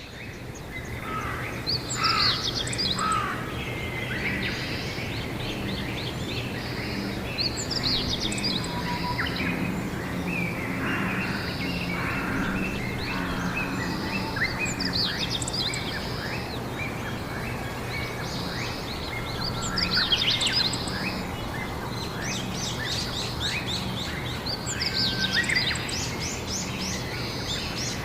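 Songbirds singing, with bursts of quick chirping phrases every few seconds over a steady low hum.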